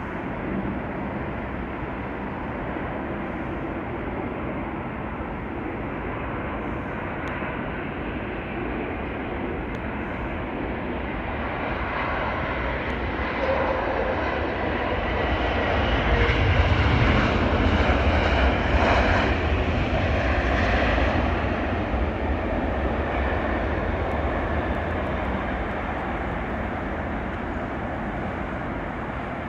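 Jet airliner's engines passing on landing approach: the noise swells, is loudest about seventeen seconds in with a deep rumble under a thin whine, then fades away.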